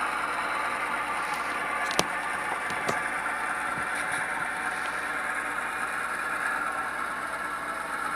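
Model GP38-2 locomotive's Tsunami 2 sound decoder playing a steady diesel engine sound through the model's small speaker, with a sharp click about two seconds in and a fainter one about a second later.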